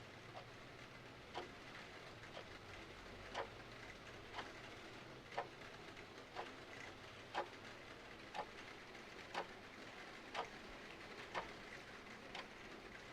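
Clock ticking steadily about once a second, alternate ticks louder in a tick-tock, over the even hiss of steady rain.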